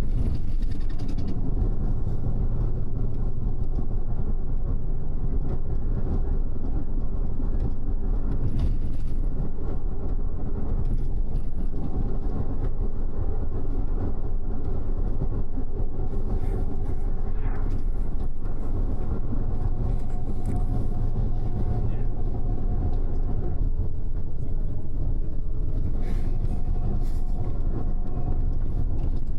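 Double-decker bus's engine and tyres running at a steady cruising speed, heard inside the upper-deck cabin: a constant low rumble with a steady engine drone.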